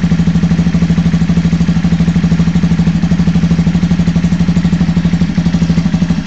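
150cc motorcycle engine running at a steady idle with an even, fast pulse, in first gear with the clutch let out so the rear wheel turns.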